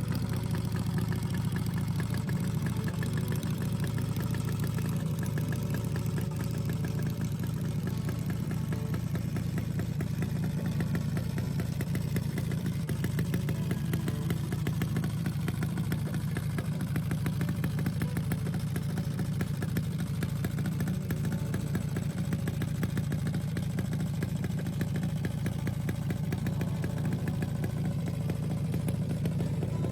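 Yamaha XS650 parallel-twin motorcycle engine idling steadily.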